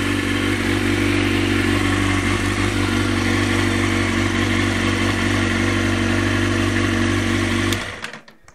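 Kawasaki ZX-6RR's inline-four engine running steadily, then shut off about eight seconds in.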